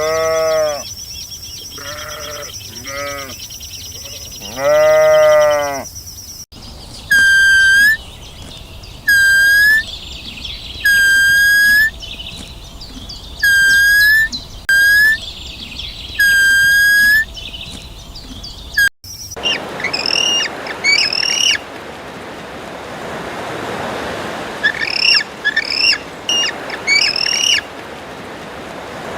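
Animal calls in three cut-together clips. First come a few pitched, arching calls, with a longer drawn-out one near 5 s. Then a single high call repeats about six times, and last come quick bird-like chirps over a steady rushing noise.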